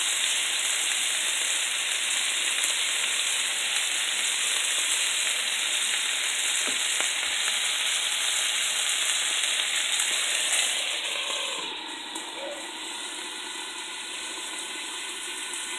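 Hamburger patties sizzling in a frying pan, a steady hiss. About twelve seconds in, the sizzle turns quieter as a glass lid goes on the pan.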